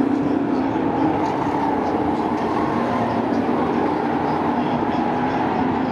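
A field of sport trucks racing around a short oval, their engines running at speed in a steady, unbroken drone.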